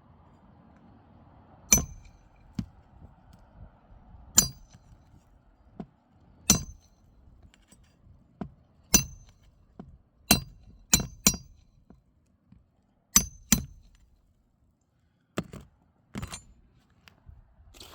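Roof snake slide-hammer roofing tool striking over and over, about a dozen sharp metal-on-metal clinks at uneven intervals, some louder than others, as it drives a shingle nail flat.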